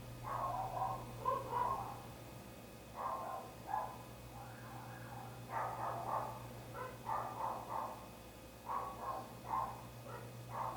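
Dog barking in quick runs of short barks, with brief pauses between the runs, over a steady low hum.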